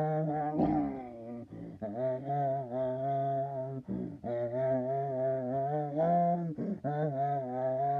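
A low voice humming long, steady held notes, breaking off briefly every second or two.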